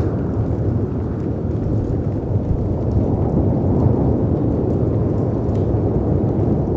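Mixed storm ambience: a steady deep rumble of wind and sea surf, with faint scattered crackles of a wood fire on top.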